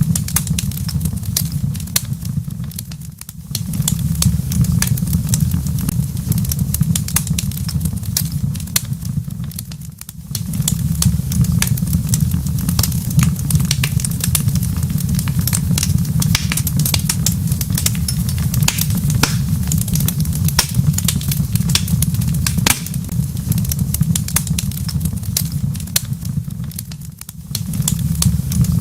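Wood fire crackling, with frequent sharp pops and snaps over a steady low rumble that briefly drops away three times.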